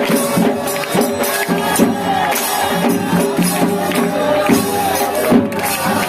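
Devotional aarti music: jingling metal percussion and repeated drum strikes over sustained tones, with crowd noise beneath.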